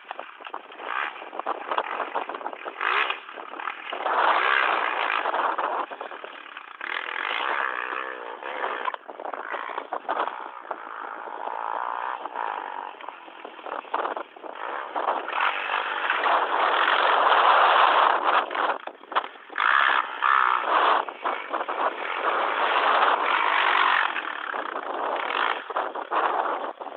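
Motocross dirt bike engine revving up and down, swelling and fading as the bike works around the track, loudest around the middle and again near the end.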